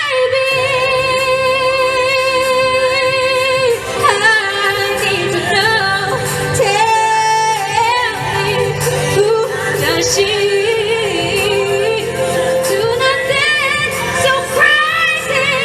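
A woman singing a pop-style song with backing music, holding long notes with vibrato.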